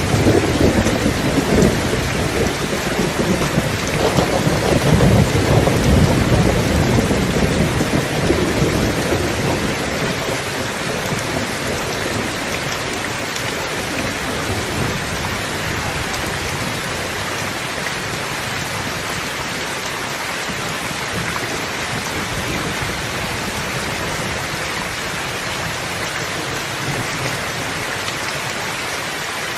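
Steady heavy rain falling, with a deep rumble of thunder in the first several seconds that dies away by about ten seconds in, leaving an even rain hiss.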